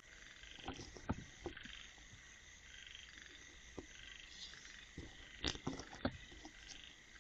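Night chorus of frogs and insects calling steadily and faintly, with a few soft clicks and knocks about a second in and again around five to six seconds in.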